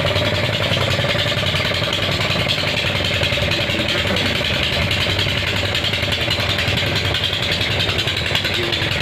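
An engine running steadily, a constant hum with a wavering whine and no change in level.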